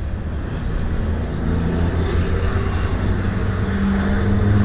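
Road vehicle driving: a steady low engine drone over tyre and road noise, growing slightly stronger near the end.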